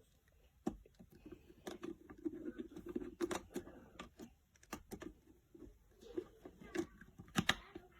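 Irregular light clicks and knocks of the electric tea kettle and its parts being handled, a dozen or so scattered taps with a louder pair near the end.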